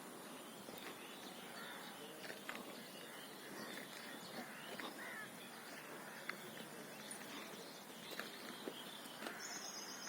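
Quiet outdoor background with scattered faint bird calls and a few light clicks. A short high trill comes near the end.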